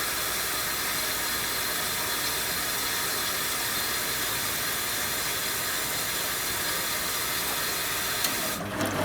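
Steady rushing hiss of water running into a 1974 Zoppas Superautomatic 242 washing machine as it fills. Near the end the hiss stops and the machine's motor starts with a hum and clicking.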